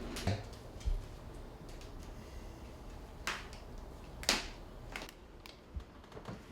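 A handful of scattered short clicks and soft knocks over a low background, the loudest about four seconds in.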